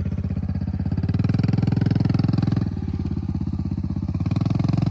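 Kawasaki KLX110R's small single-cylinder four-stroke engine running at a low, even pace, its speed and loudness rising and falling slightly a couple of times.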